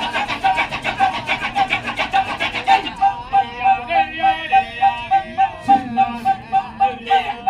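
Kecak chorus of men chanting "cak" in a fast interlocking rhythm over a steady vocal pulse about four times a second. From about three seconds in, a solo voice sings a wavering melodic line above the chorus.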